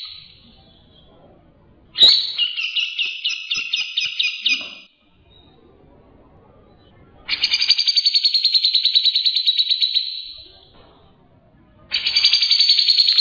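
Songbird singing rapid-fire 'tembakan' trills, the kind of song used as a master recording to train caged songbirds. Three bursts of fast, evenly repeated high notes start about two, seven and twelve seconds in, each lasting about three seconds, with quiet pauses between.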